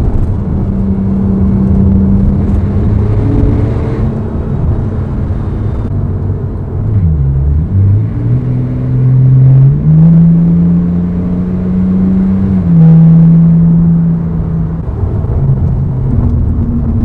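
Porsche 997.2 Carrera 4S's 3.8-litre flat-six, heard through an exhaust with both side mufflers removed, running under way. The note is loud. Its pitch dips and recovers about a third of the way in, climbs over the next few seconds, and drops sharply near three-quarters of the way through, where it is at its loudest.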